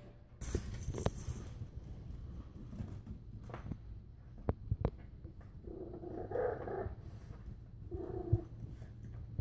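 French bulldog puppies making two short vocal sounds, about six and eight seconds in, amid scattered light clicks and knocks.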